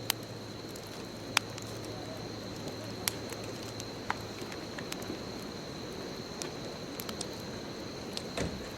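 Bonfire crackling: wood burning with a steady rush and irregular sharp pops, a few of them loud. A thin, steady high-pitched tone sits behind it.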